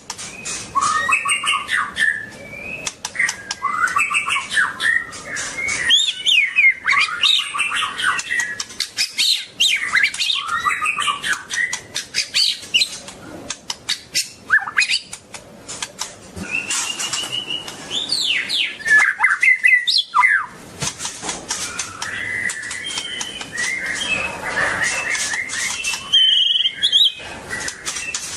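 White-rumped shama singing a long run of varied whistled phrases and quick glides, with many sharp clicks among the notes.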